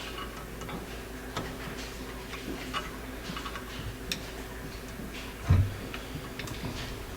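Small metal parts and hand tools being handled on a carburetor: light scattered clicks and ticks, with a dull thump about five and a half seconds in, over a faint steady hum.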